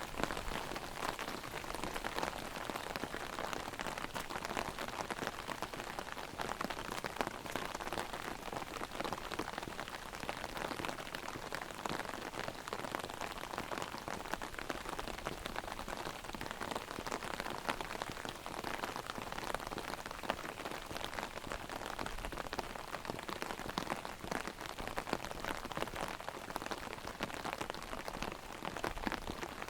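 Heavy rain hitting an open umbrella held overhead: a dense, steady patter of many small drop hits.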